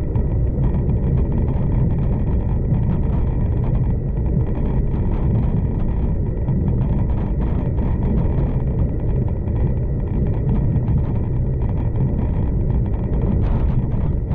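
V/Line passenger train running along the track: a steady low rumble of wheels and running gear, with a faint steady whine and light scattered clicks over it.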